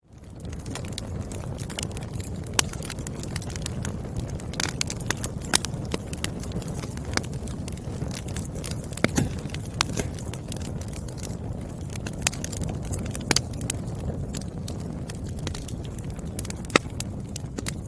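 Burning firewood crackling, with frequent sharp snaps and a few louder pops over the low rumble of the flames. It fades in from silence at the start.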